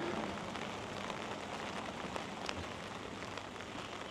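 Steady monsoon rain falling, a continuous hiss with scattered louder drops ticking through it.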